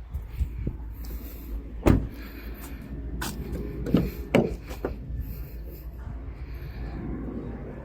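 A few sharp knocks and clunks over a steady low rumble, the loudest about two seconds in and two more close together around four seconds in.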